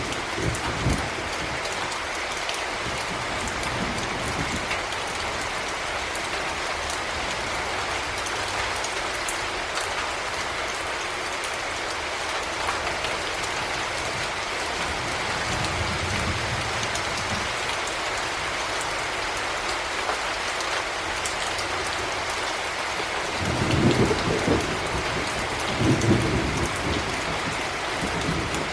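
Heavy rain falling steadily, with low rumbles of thunder, a faint one about midway and two louder ones near the end.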